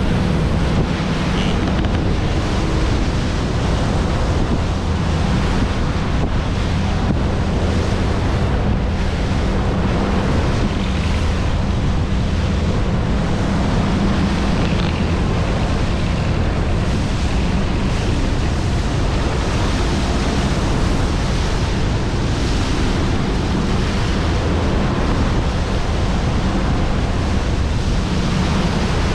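Steady engine drone under heavy wind noise on the microphone and rushing water, as from a moving boat. The sound stays even throughout.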